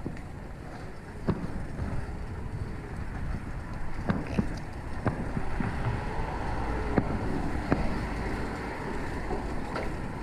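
Wind rushing over the microphone of a camera riding on a fixed-gear bike, over a steady low road rumble, with several short sharp knocks along the way.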